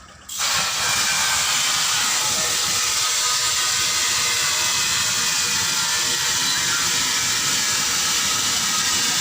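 Compressed air hissing loudly and steadily in a tyre repair shop, switching on suddenly just after the start.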